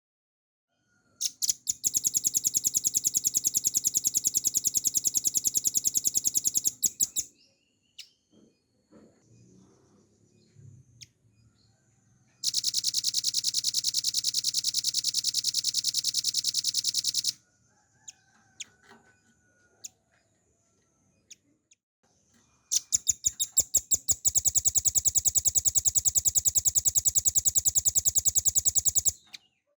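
Velvet-fronted nuthatch singing three long, very rapid rattling trills of evenly repeated notes, each lasting about five to six seconds, with short quiet pauses between them.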